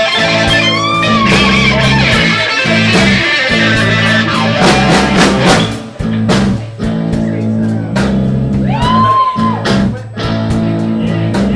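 Live blues band playing: electric guitar bending notes over bass and drum kit, the instrumental lead-in before the vocal.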